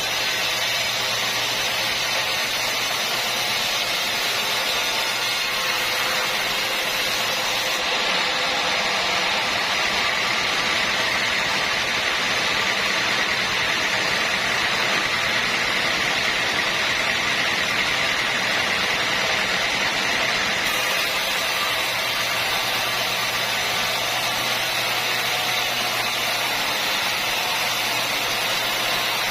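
Sawmill machinery running steadily: a constant motor hum under a loud, even hiss, with no distinct strikes or cuts standing out.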